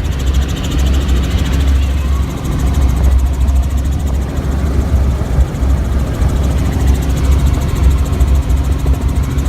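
Helicopter rotor and engine noise heard from inside the cabin: a loud, steady low drone with a fast, even rotor beat.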